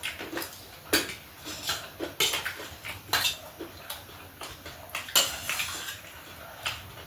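Cutlery clinking and scraping against a dish in a string of irregular sharp strikes, the loudest about a second in and about five seconds in.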